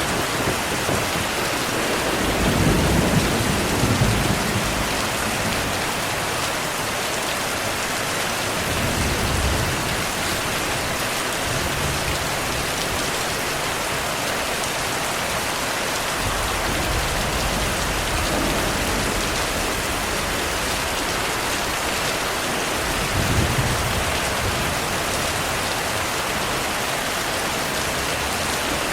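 Heavy rain falling steadily, with a few low rumbles of thunder: the longest about two to four seconds in, shorter ones around nine seconds and near the end of the third quarter.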